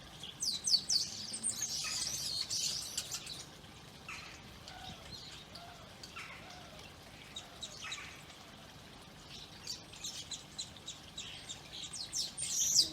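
A flock of garden birds chirping and calling around a feeder: a busy burst of quick high chirps at the start, sparser calls in the middle, and dense chirping again near the end.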